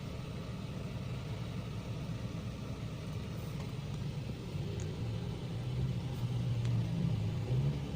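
Volkswagen Polo 1.2-litre petrol engine idling with a low rumble while misfiring; cylinders 2 and 3 misfire and the fuel trim reads too rich.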